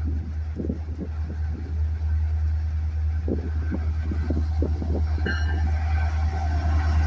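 Steady low rumble of a Norfolk Southern freight train's diesel locomotives drawing near, with strong wind buffeting the microphone in irregular gusts. A brief high tone sounds about five seconds in.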